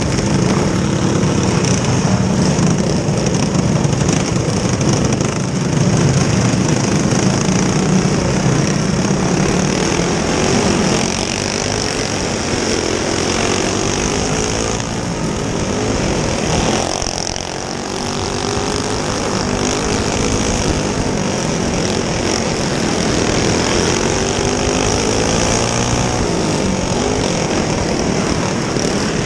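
Several small single-cylinder go-kart engines running hard on a dirt track, their pitch rising and falling over and over as they accelerate and lift off.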